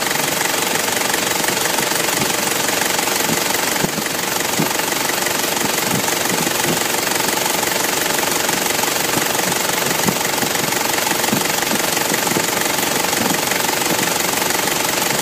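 Toyota 3.0-litre turbo diesel engine idling steadily after a restart.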